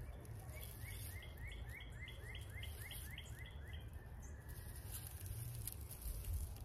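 A songbird singing a run of about a dozen quick, clear slurred notes, about four a second, that stops about four seconds in. Underneath is a steady low background of outdoor noise.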